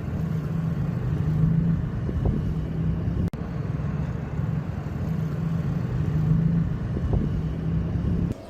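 Steady low engine rumble of a motor vehicle, broken by a brief cut about three seconds in.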